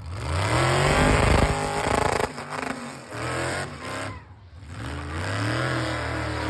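Car engine revved three times, each rev rising in pitch and dropping off, the last one held high near the end.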